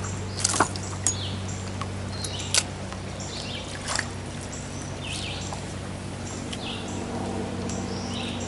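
Birds chirping with short high calls repeated again and again, over a steady low hum. A few sharp clicks stand out in the first half, the loudest at about two and a half seconds.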